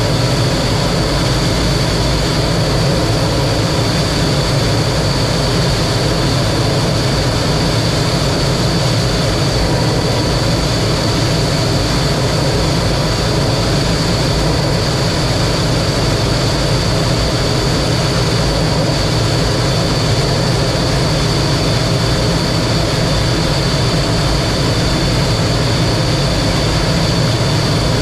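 Steady cockpit noise of a T-33 jet trainer in flight: its turbojet engine and the rush of air, with a steady high whine over it, unchanging throughout.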